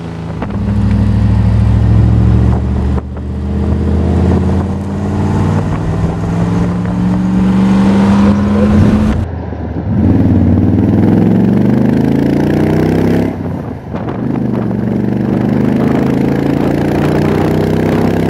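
Morgan Plus 8's Rover V8 engine pulling under acceleration, heard from the open car. Its note climbs steadily for about nine seconds, then falls back and climbs again twice more.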